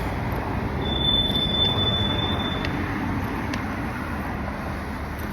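A vehicle passing on the road, its noise swelling about a second in and then fading, with a thin high squeal lasting a couple of seconds near the start.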